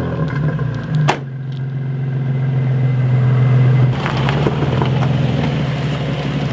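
Turbocharged 1JZ inline-six of a Toyota Cressida idling steadily through its newly finished exhaust, with a sharp click about a second in.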